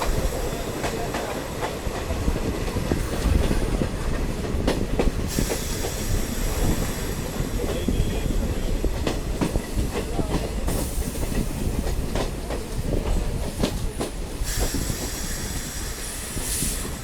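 Diesel multiple unit train running along the track: a steady rumble of wheels on rail with irregular clicks and knocks, and a faint high ringing that comes and goes.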